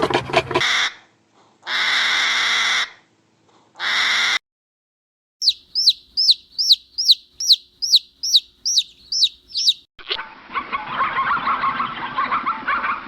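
A string of bird calls cut together: two short harsh calls, then a run of about a dozen high, falling peeps at roughly three a second, then a dense, busy chatter of many calls.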